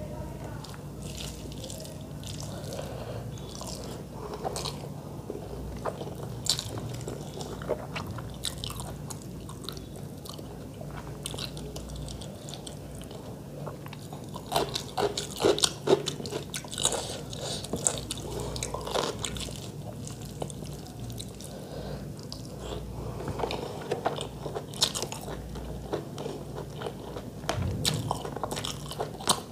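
Close-miked eating: wet chewing of rice and chicken curry with mouth clicks and smacks. The sounds grow denser and louder about halfway through.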